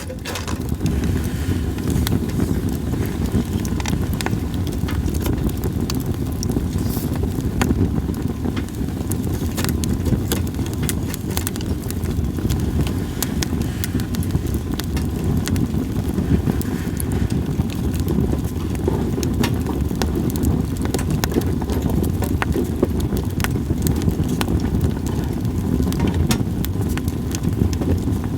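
Campfire of split sawtooth oak (kunugi) logs crackling, with frequent sharp, irregular pops over a steady low rumble.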